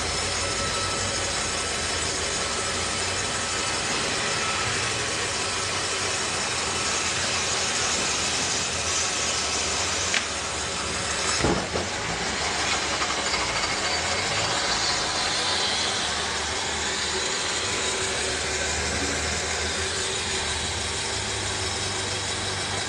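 Sawmill machinery running with a steady, even hiss-like noise, with a sharp knock about ten seconds in and another a second or so later.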